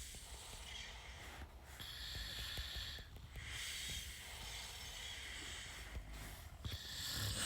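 Soft breathing close to the microphone, heard as a hiss in a few long breaths with short gaps between them.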